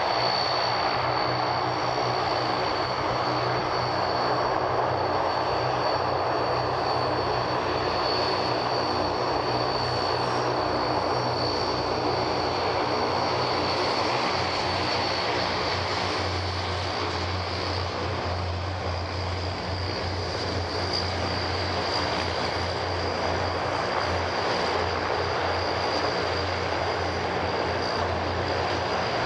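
Antonov An-32P's two turboprop engines running at taxi power: a steady propeller drone with a high, even whine over it. The low drone grows stronger about halfway through.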